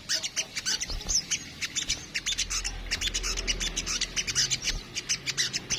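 Little spiderhunter (sogok ontong) chattering in a fast, continuous run of short high chirps.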